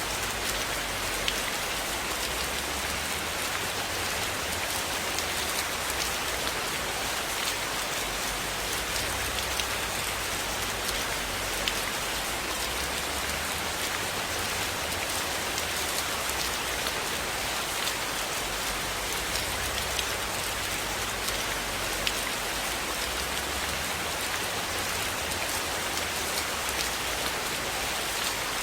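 Steady rain falling, an even hiss with many scattered sharp drip-like clicks throughout.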